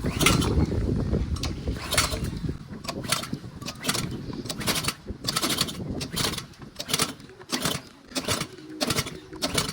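Small petrol engine being started with the choke out: it runs roughly for about two seconds, then short sharp mechanical bursts follow, about two a second.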